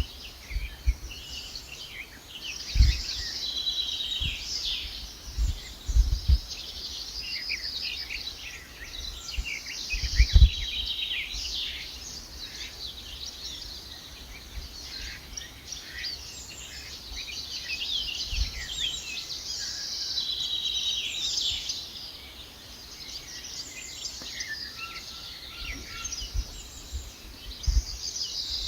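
Several birds singing at once: continuous overlapping high chirps and trills. A few brief low thumps stand out, the loudest about ten seconds in.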